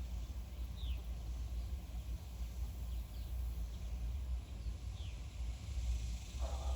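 Outdoor ambience: a steady low rumble with a few faint, short, downward-gliding bird chirps about a second, three and five seconds in, and a brief rustle-like noise near the end.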